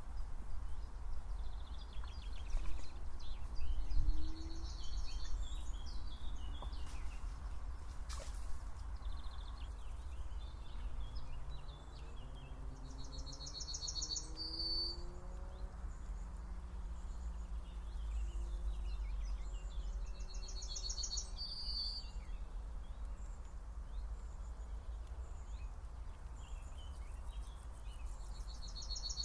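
A songbird repeating the same short phrase about every seven seconds, a rapid trill ending in a higher buzzy note. Other birds chirp and twitter around it, over a steady low rumble.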